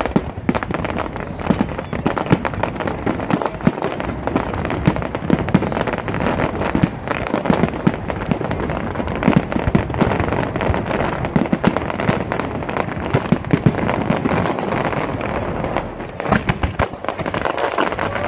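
Fireworks display going off continuously: dense crackling and popping with repeated bangs, and a flurry of louder bangs near the end.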